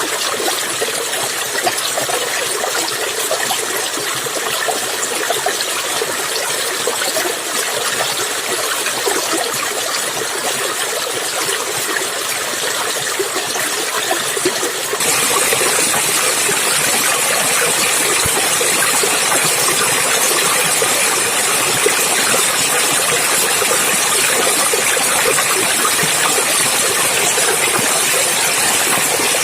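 Clear water flowing steadily as an even rushing noise. About halfway through, the sound jumps abruptly to a louder, hissier rush.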